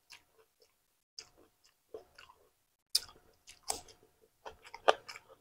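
A person chewing and biting into raw cucumber, with irregular crisp crunches and wet mouth sounds; the loudest crunches come about three seconds in and near the end.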